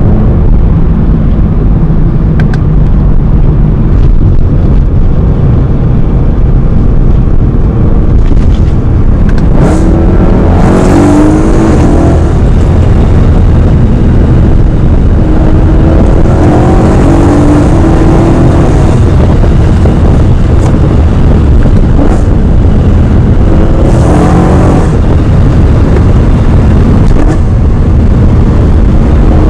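BMW M3 V8 engine under hard acceleration with a loud, steady low rumble. The revs climb several times, around ten seconds in, again past the midpoint and near the end.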